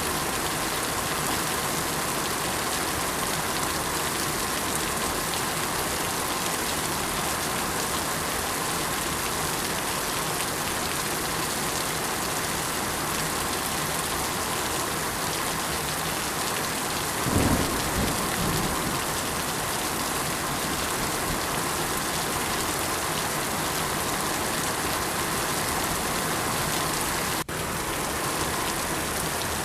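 Steady rainfall hissing evenly, with a short low rumble of thunder rolling in about two thirds of the way through. The rain drops out for an instant near the end.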